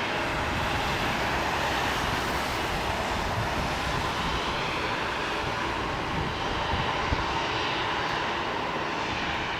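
Jet airliner engines, a steady rushing noise with slow swells in pitch.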